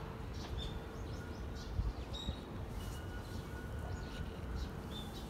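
Birds chirping: short high calls and brief whistled notes scattered over a low background rumble and a faint steady hum, with one soft low thump about two seconds in.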